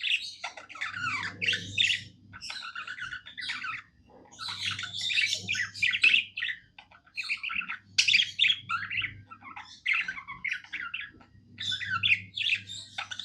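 Budgerigar warbling: a continuous run of rapid chirps, chatters and squeaky notes in phrases broken by brief pauses, the contented song of a budgie.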